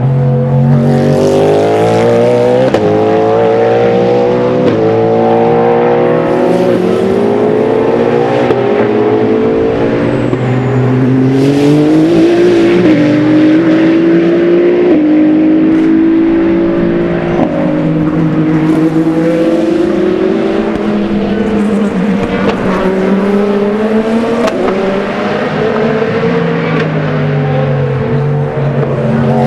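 Race car engine at full throttle, its pitch climbing through a run of upshifts and dropping at each gear change, then easing and building again. Loud and continuous throughout.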